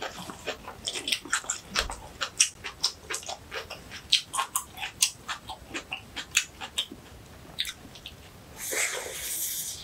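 Close-up eating sounds: a rapid run of wet chewing clicks and mouth smacks, then a breathy rush of air about nine seconds in.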